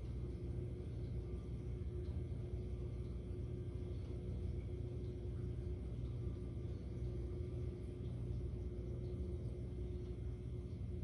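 Steady low rumble with a faint constant hum, holding an even level throughout with no pass-by swelling or fading.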